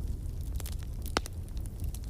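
Wood fire crackling in a fireplace: a low steady rumble of flames with scattered sharp pops, one louder pop a little over a second in.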